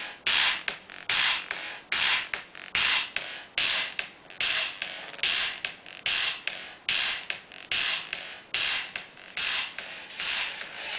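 Music with a sharp, rhythmic beat played through a tiny speaker, thin and with almost no bass, about two hits a second.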